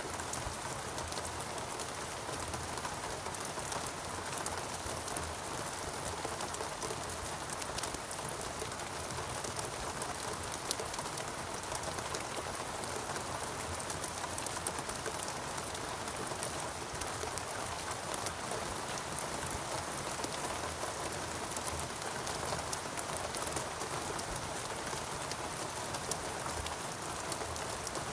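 Steady rainfall in a rainforest, many drops pattering on leaves and surfaces without letting up.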